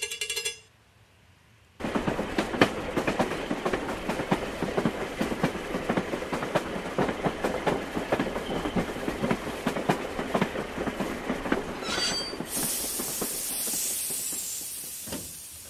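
Train sound effect: wheels clattering rapidly over the rail joints for most of the time, then a steady hiss in the last few seconds that fades away.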